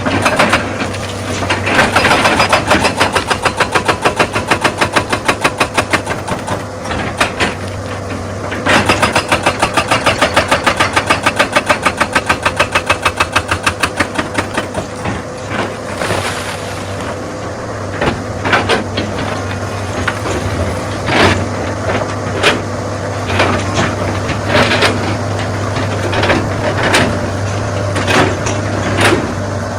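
Excavator-mounted hydraulic rock breaker hammering stone in two long runs of rapid blows, about six or seven a second, over the steady hum of the diesel engine. In the second half the hammering stops and there are scattered single knocks and clatters of rock.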